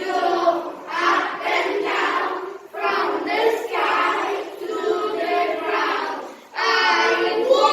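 A group of children singing together as a choir, in phrases of a few seconds with short breaths between them.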